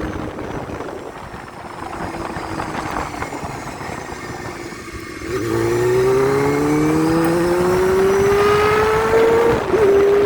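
Honda Hornet inline-four motorcycle engine through aftermarket twin mufflers: running at a light throttle, then about halfway through it opens up and the engine note climbs steadily under acceleration, dips briefly near the end at a gear change, and climbs again.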